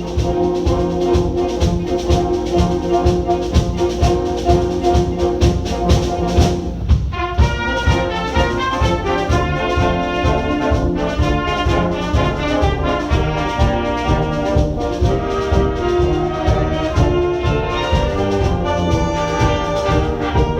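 Wind band playing an up-tempo piece: brass carry sustained chords and lines over a steady, driving percussion beat.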